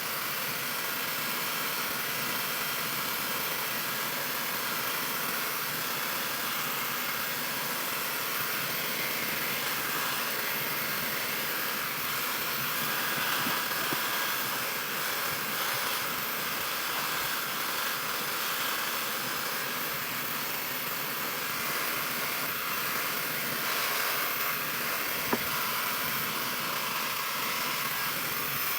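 CrazyMar high-speed ionic hair dryer running steadily at full blow, drying hair extensions. There is one brief click about 25 seconds in.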